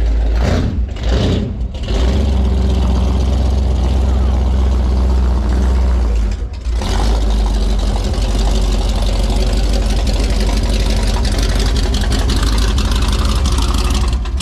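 Rat-rod sedan's engine running with a loud, deep exhaust note as the car drives slowly past, briefly dropping away about a second and a half in and again about six and a half seconds in.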